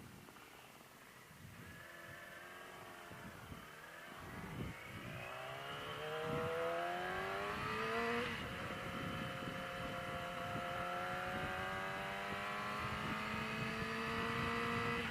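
Yamaha R6 sport bike's inline-four engine pulling away and accelerating. Its pitch climbs for several seconds, drops at an upshift about eight seconds in, then rises slowly again as the bike keeps gaining speed.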